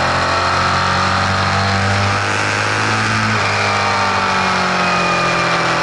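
Car engine running steadily, a continuous hum with a whining overtone whose pitch drifts slowly and shifts slightly about halfway through. The owner suspects it carries an unfamiliar mechanical noise.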